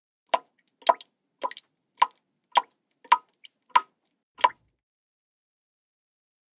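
Water drops falling one at a time, eight drips at an even pace of a little under two a second.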